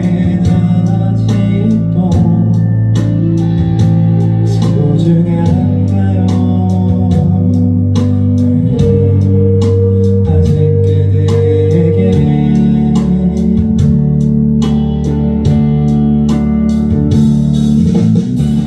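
Band music: electric guitar and bass over drums with a steady beat, an instrumental stretch of a rock song.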